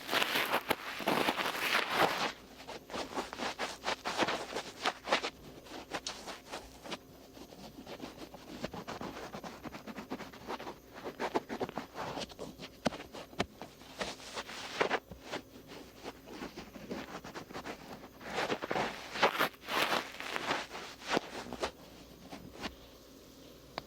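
Cotton swab rubbing and scratching over the outer ear, close to the microphone: quick repeated rustling strokes, louder at the start and again in two spells later on, softer in between and fading near the end.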